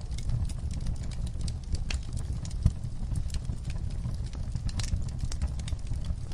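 Fire in a fireplace crackling, with irregular snaps and pops over a steady low rumble of the flames. One louder pop comes about two and a half seconds in.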